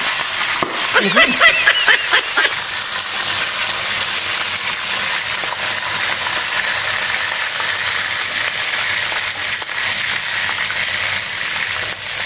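Pork pieces shallow-frying in hot oil in a skillet: a steady, dense sizzle.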